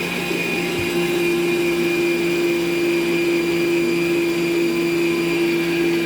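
Electric planetary stand mixer running steadily, a constant motor hum with a thin high whine above it.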